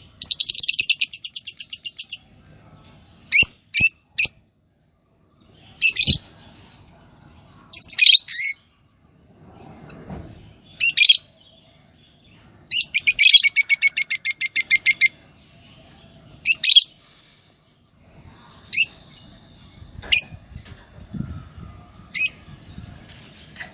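Pet lovebirds calling with shrill, high-pitched chirps. Two long runs of rapid chattering notes, one at the start and one about halfway through, are broken by short single and paired chirps.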